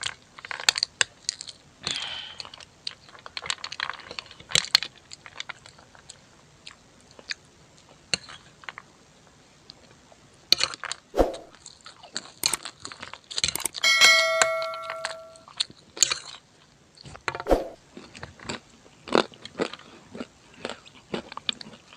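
A person chewing and biting food close to the microphone, with many short wet mouth clicks and crunches. About 14 seconds in, a bell-like ding rings for about a second and a half.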